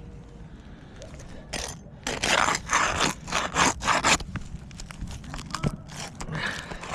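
Roof snake scraping under a three-tab asphalt shingle: a run of rough scrapes starting about a second and a half in and lasting a couple of seconds, then lighter scratches and clicks. The tool is working the shingle loose over its nails.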